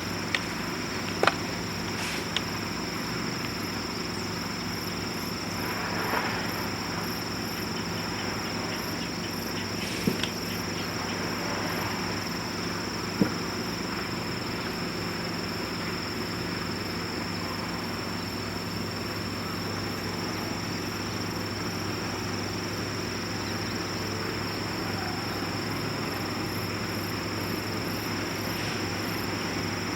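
A few sharp crackles from a wood fire in a rocket stove. Behind them, insects trill steadily and a low hum runs without change.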